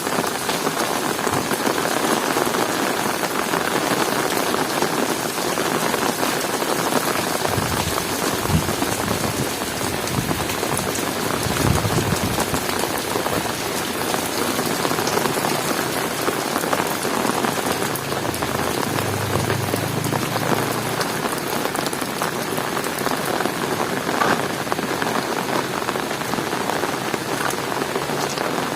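Heavy rain falling steadily, a dense patter of drops striking hard surfaces. A few brief low rumbles come through in the middle.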